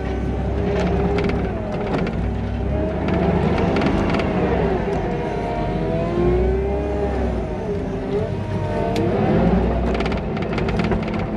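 Skid steer's diesel engine and hydraulics working under load as it pushes dirt, the pitch rising and falling continuously, with a few sharp clanks.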